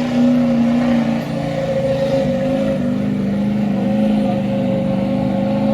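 Pulling truck's engine held at high revs under load while dragging the sled, a steady loud drone whose pitch drops slightly, in steps, about a second and two seconds in.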